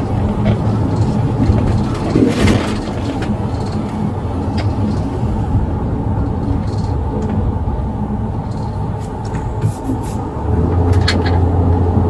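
Motor vehicle running, with steady engine and road rumble; the engine note grows louder about ten seconds in. A brief rustle or knock about two seconds in.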